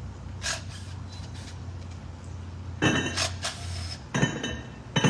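Several sharp clinks and clatters with a brief ring, like hard objects such as glass or dishes knocking together, over a steady low hum that stops about four seconds in.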